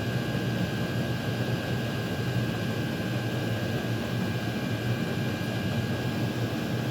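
Chinese diesel air heaters running: a steady rush of blower fans and combustion with a low hum and a thin, unchanging high whine.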